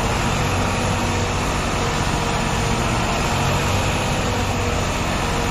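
Deutz-Fahr tractor's diesel engine running steadily under a constant low hum, with no change in speed.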